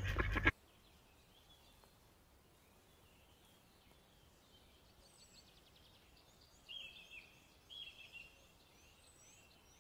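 A loud sound cuts off about half a second in. What follows is quiet outdoor background with faint bird chirps and whistles. A few louder bird calls come about seven and eight seconds in.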